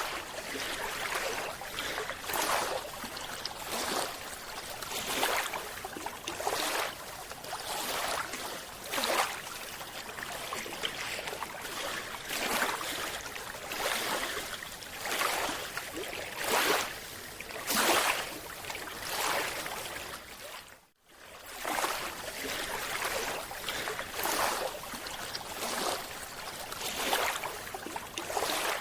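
A scuba diver's breathing heard underwater: repeated hissing and bubbling bursts from the regulator, about one every one to two seconds, with a brief cut to silence about two-thirds of the way through.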